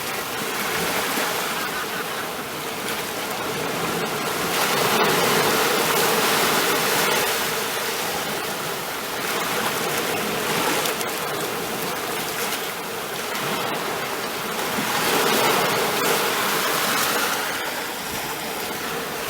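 Ocean waves breaking and washing in, a continuous rush of surf that swells and eases every five or six seconds.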